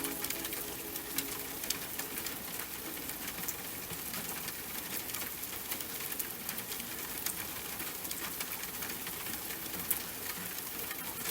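Steady rain with many separate drops ticking sharply on a hard surface, with no music.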